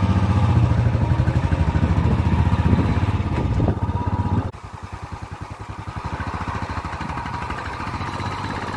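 Royal Enfield Bullet single-cylinder motorcycle engine running under way, heard from the pillion seat as a fast, even beat. About four and a half seconds in it gets noticeably quieter and runs on at a lower level.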